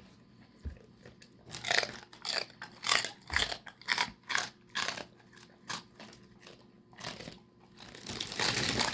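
A basset hound crunching and chewing a hard, crunchy dog treat: a run of sharp crunches about two a second, then a longer rustling noise near the end.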